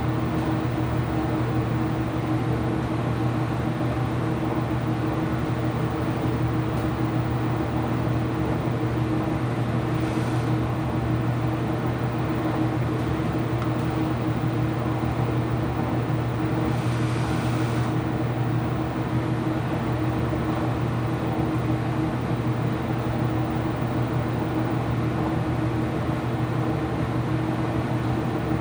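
Ipso washing machine running with a steady mechanical hum at constant speed. A brief hiss comes about ten seconds in, and a longer one around seventeen seconds.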